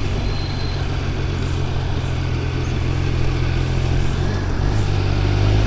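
Triumph Speed Triple 1200 RR's three-cylinder engine running steadily at low revs while the bike is ridden.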